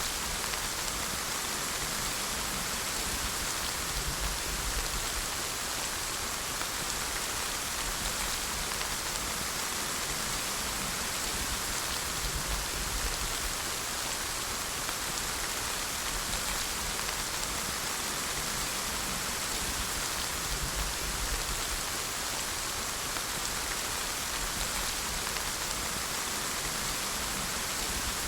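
Steady rainfall: an even, continuous hiss of rain with a low rumble underneath.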